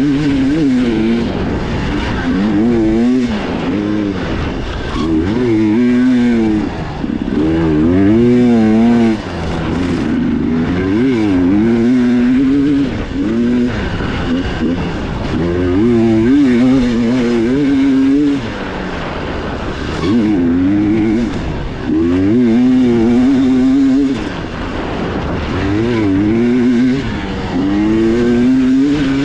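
Dirt bike engine revved hard and eased off again and again, pitch climbing and dropping every second or two with brief throttle chops, as the bike is ridden fast through a trail section.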